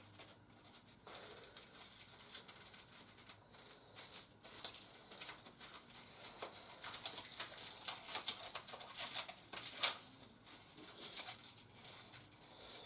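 Plastic packaging and small plastic toy parts being handled: an irregular run of short crackles, rustles and light clicks.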